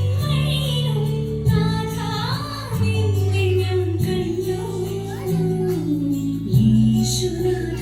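A song: a high singing voice carries a melody over sustained bass chords that change about every second and a half.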